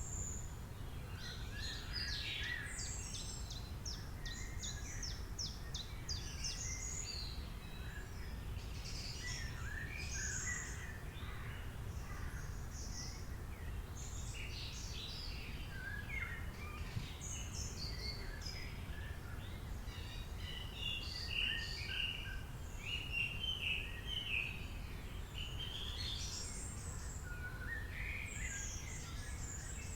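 Several wild birds calling and singing over one another, a continuous stream of short chirps and quick trills, with a run of louder warbled notes a little past two-thirds of the way through. Under them runs a steady low background rumble.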